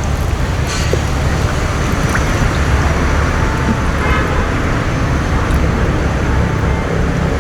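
Boat engine running steadily, a loud low rumble.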